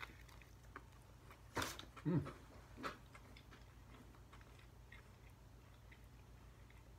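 A person biting into and chewing a mouthful of burger with the mouth closed, quietly, with a few soft mouth clicks and a brief low hum of the voice about two seconds in.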